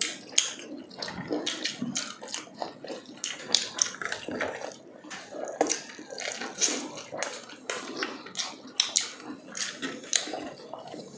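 Close-miked chewing of fried chicken: irregular crisp crunches of the breading mixed with wet, smacking mouth sounds.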